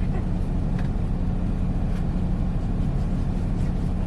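Semi-truck engine running with a steady low drone.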